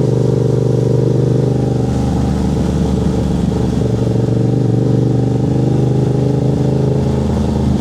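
Yamaha motorcycle engine running loud and steady under way, its exhaust note holding nearly constant revs with small shifts in pitch.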